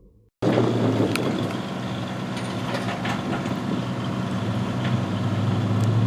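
Saleen S7 Twin Turbo's twin-turbocharged 7-litre V8 idling steadily, a low even engine drone with a few light clicks over it. It starts abruptly about half a second in.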